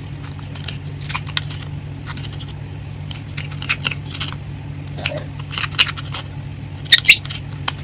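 Hardened chalk crust cracking and crumbling as it is crushed, a scatter of sharp crackles and crunches with two louder cracks about seven seconds in, over a steady low hum.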